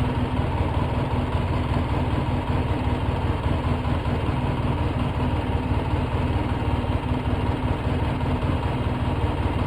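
2004 Polaris Sportsman 700 ATV's twin-cylinder engine idling steadily. The idle is a little rough, which the owner calls not good but not that bad.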